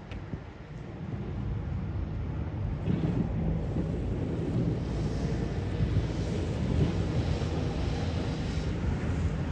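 Blizzard wind buffeting the microphone: a low, gusty noise that builds about a second in and then holds steady.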